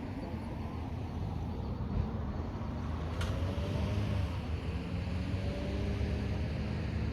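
Car driving at night: a steady low engine and road rumble with faint drifting engine tones, and one brief sharp click about three seconds in.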